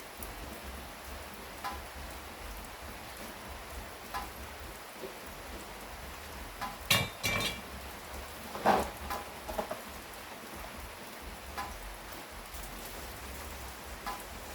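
Steady rain falling, heard from inside a kitchen, with scattered drips and a few sharp knocks about seven and nine seconds in.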